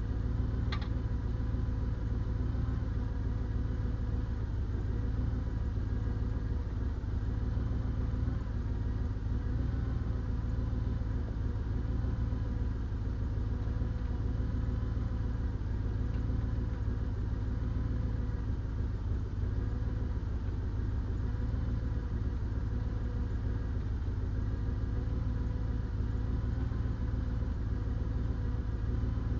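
Engine idling steadily at an even speed, with one short high click or chirp about a second in.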